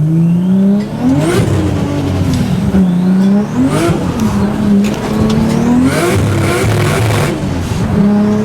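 Big-turbo Nissan Skyline R33 straight-six accelerating hard through the gears, heard from inside the car. The engine note climbs and drops several times, once at each gear change, with a short burst of noise at some of the shifts. It then pulls steadily and climbs again near the end.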